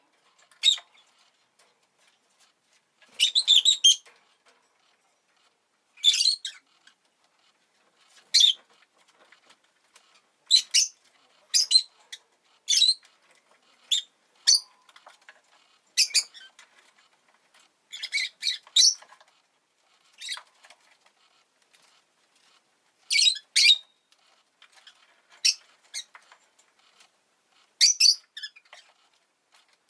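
Rosy-faced lovebird chirping: short, sharp, high-pitched calls, often in quick clusters of two or three, coming every second or two.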